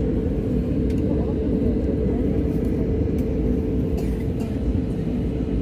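Airliner cabin noise: a steady low rumble with a constant hum and no break.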